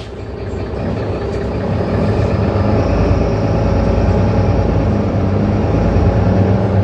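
Mercedes-Benz Citaro C2 city bus engine running with a steady low tone, growing louder over the first couple of seconds and then holding steady as the bus drives.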